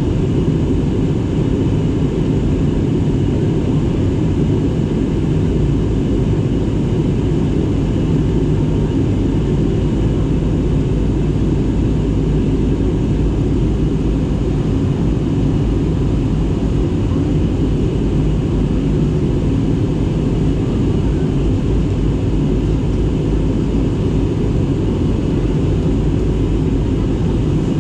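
Steady engine and airflow noise inside an airliner's passenger cabin during descent: a deep, even drone with faint steady tones above it.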